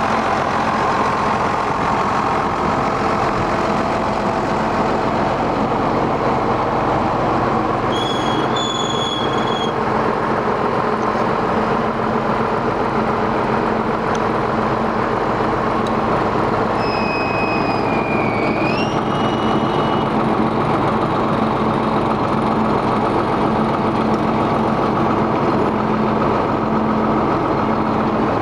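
John Deere 7810 tractor's six-cylinder turbo-diesel engine running steadily with an even hum. Two brief high-pitched squeals cut in, one about eight seconds in and another, rising in pitch, a little past halfway.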